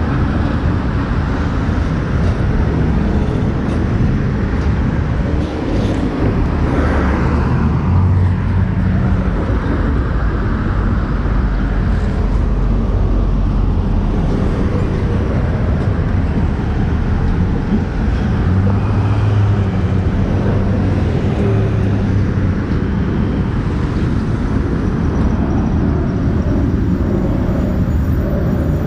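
Motorcycle riding in traffic: steady, loud road and engine noise with heavy low rumble, much like wind on the microphone.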